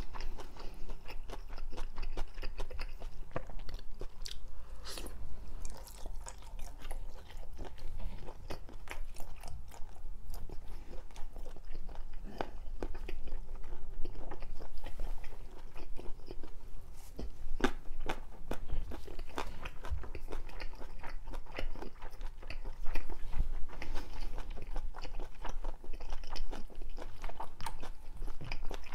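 Close-miked chewing of food, with many small, irregular crunching clicks and a few louder bites.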